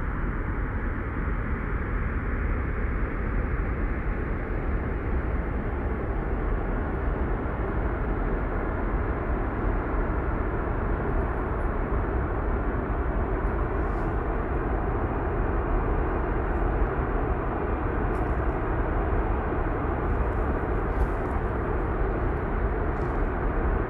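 Steady road and engine noise of a car driving at a constant speed, with a few faint clicks in the second half.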